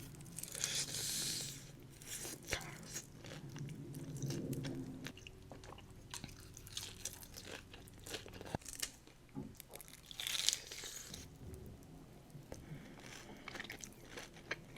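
Close-miked eating sounds: a person chewing food with many small crunches, with louder crunching bites about a second in and again about ten seconds in.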